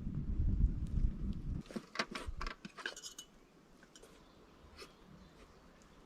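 A low rumble for about a second and a half, then a quick run of sharp clicks and a light metallic clink, followed by a few faint scattered ticks.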